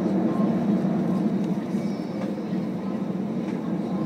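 Cabin noise of an Airbus A321 heard from a passenger seat: a steady low rumble of the engines and airframe, with a few faint ticks.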